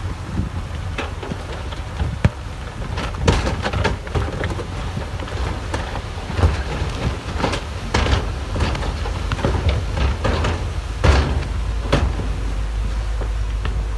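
Heavy earthmoving machinery working: a low diesel rumble with repeated, irregular metallic clanks and knocks, several loud ones near the middle and about three-quarters of the way in.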